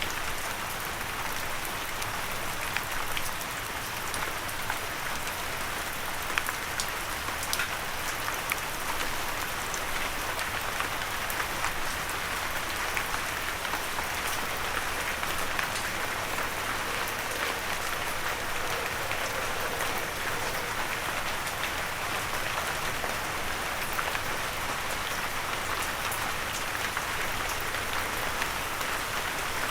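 Steady rain falling on a surface, with a constant hiss and many small, sharp drop ticks. No thunder.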